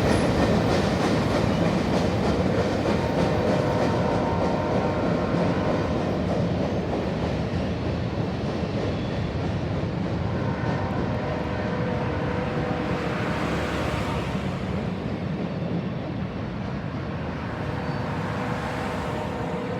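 Freight train cars rolling past, a steady rumble and clatter of wheels on rail that slowly grows quieter.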